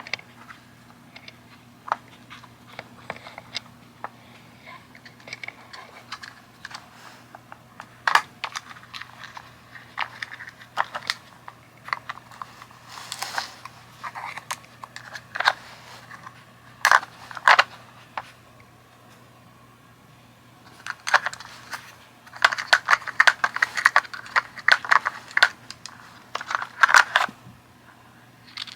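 Pieces of a cat treat puzzle toy clicking, knocking and sliding as a cat paws at its sliders and bone covers to get at dry food, in scattered clicks with a dense run of rapid clicks near the end.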